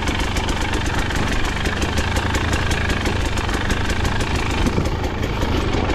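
KTM 250XC-W two-stroke dirt bike engine running at low, steady revs.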